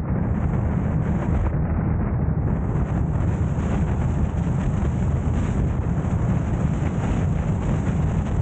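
Steady low rumble of a car on the move: road and wind noise on the camera's microphone, with no breaks or sudden events.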